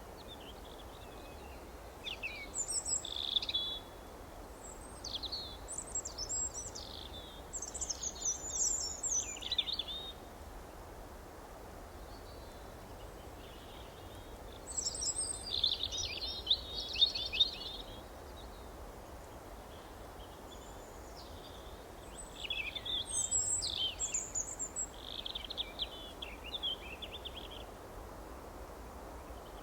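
Songbirds chirping in short bouts of quick high twittering notes, with pauses of a few seconds between bouts, over a steady low outdoor background hiss.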